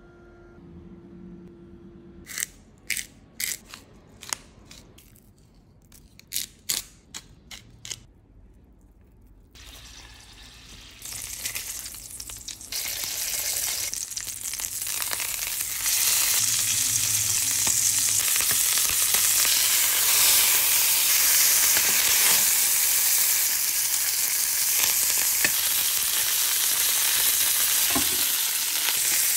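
About ten sharp knife clicks on a bamboo cutting board while duck breast skin is scored. Then duck breast frying in a stainless steel pan: the sizzle builds from about halfway in and stays loud and steady.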